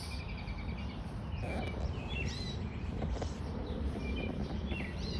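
Pet canaries in a cage chirping: a short high trill at the start, then a few scattered brief chirps.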